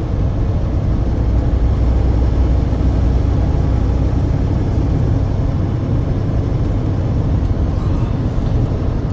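Steady low rumble of a truck driving, engine and road noise running evenly without change.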